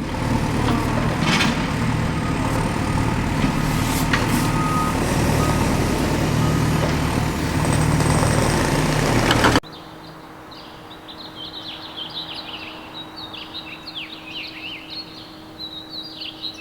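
Heavy truck engine running with a short reversing-type beep about four seconds in, cut off abruptly a little over halfway through. After the cut, birds chirp rapidly over a steady low hum.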